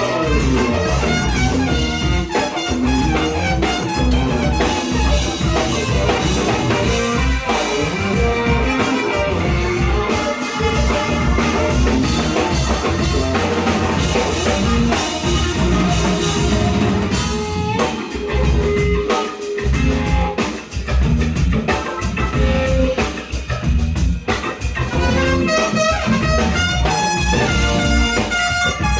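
Live band playing an instrumental soul-jazz tune, with drum kit, bass and brass heard over keys and guitar.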